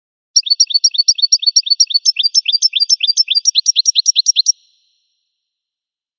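Goldfinch song: a fast trill of high, sweeping repeated notes, about eight a second, switching to a second repeated note about two seconds in and stopping abruptly after about four seconds.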